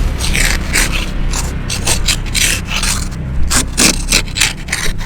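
Plastic ice scraper rasping across hard, frozen ice on a car windshield in quick repeated strokes, about three a second, with wind rumbling on the microphone.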